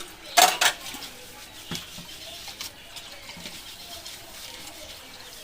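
Dishes and kitchen items clattering as they are handled: a loud clatter about half a second in, a single knock a little over a second later, then light clinks.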